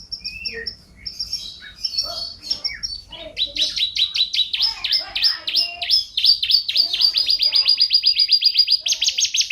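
A songbird singing: high chirps and short whistles, then from about three seconds in a loud, fast trill of repeated down-slurred notes, about eight a second, pitched higher and louder near the end.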